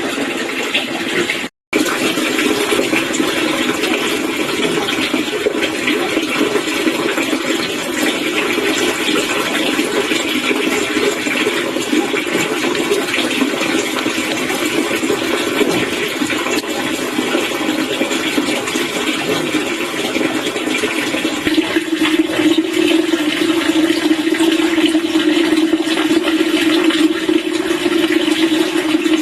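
Steady rushing, water-like noise with a brief cut-out about a second and a half in; a low hum in it grows stronger in the last third.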